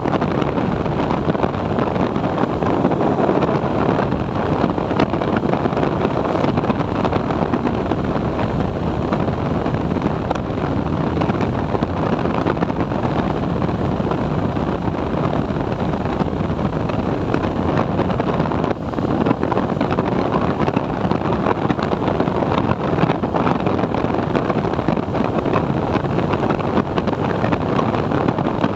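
TVS Apache 4V motorcycle on the move, its engine running steadily under heavy wind noise on the microphone, with a brief dip about two-thirds of the way through.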